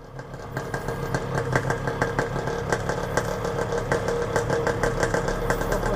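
Yamaha RX-King's two-stroke single-cylinder engine idling steadily, with an irregular rapid ticking over the low hum.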